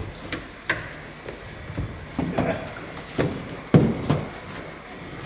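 Several knocks and clunks of a part being handled and fitted, the loudest about three and a half seconds in.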